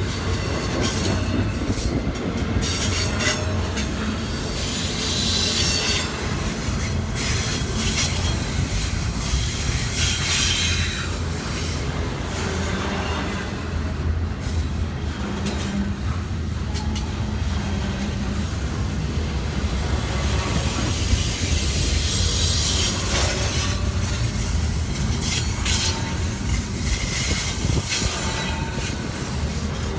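Freight train cars rolling past, a steady rumble with metal wheels squealing high-pitched on and off and scattered clicks from the rail joints.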